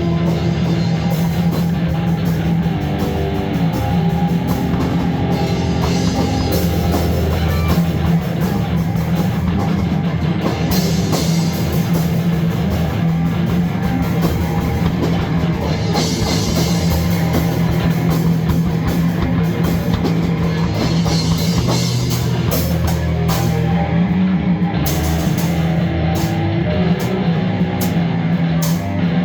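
Loud, continuous rock music with a drum kit and guitar.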